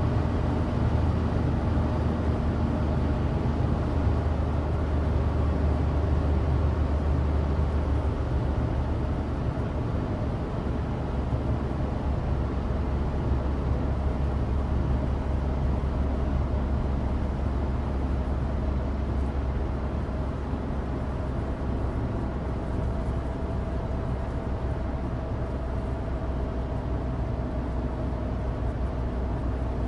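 Cabin noise of a Suzuki Alto Turbo RS (HA36S) on the move: its 660 cc three-cylinder turbo engine running steadily under road noise from studless winter tyres on dry asphalt. The noise eases slightly about nine seconds in.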